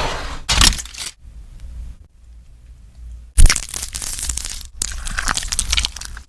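Close-miked eating sounds of crunchy food: a short crunch, a quieter pause, then a sharp loud cracking bite about three and a half seconds in, followed by dense crunching chews.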